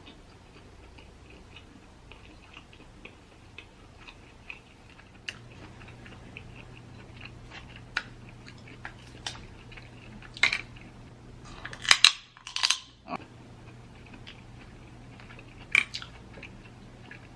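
Close-miked eating of snow crab legs: soft chewing and small wet clicks throughout, with a few louder crackles partway through.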